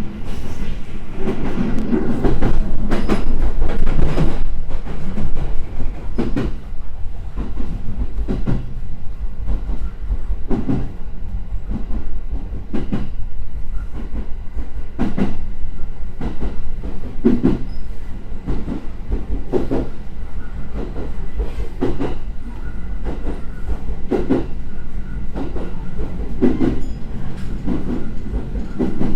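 209 series electric train running along the track: a steady low rumble with wheels clacking over rail joints every second or two.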